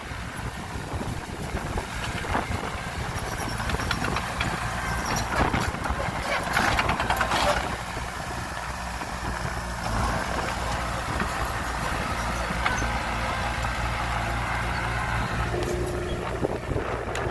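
Heavy diesel engine of an earthmoving machine running steadily, with a louder, rougher stretch about six to seven and a half seconds in.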